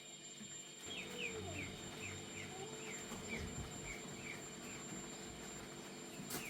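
A bird calling: a run of about ten short, falling chirps, two or three a second, starting about a second in and stopping before the end. A single sharp click near the end.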